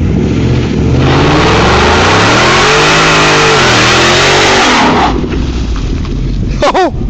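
2012 Ford Mustang GT's 5.0 V8, through a Borla ATAK exhaust, revving up and back down during a burnout, the engine pitch peaking about three seconds in. From about a second in until about five seconds, a loud rushing hiss of spinning tyres sits over the engine.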